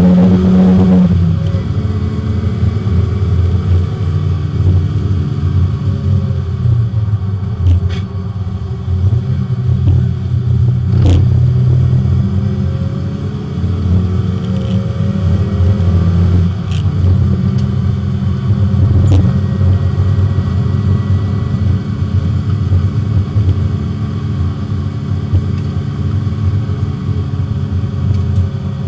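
Porsche 924 race car's four-cylinder engine, heard from inside the cabin while lapping the circuit, with the revs rising and falling through gear changes. A few sharp clicks or knocks cut through, the clearest about eleven seconds in.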